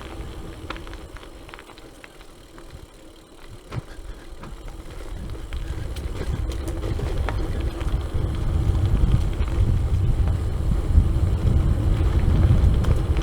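Gravel bike riding on a rough track, with scattered small clicks over a low rumble of wind buffeting the microphone. The rumble grows steadily louder over the second half as speed builds.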